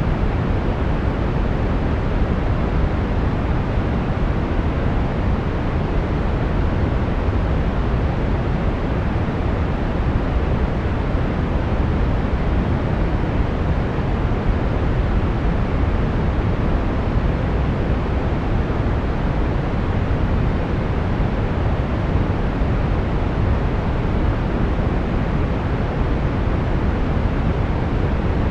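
Steady brown noise: an unchanging, deep rushing hiss, loudest in the low end and fading toward the highs.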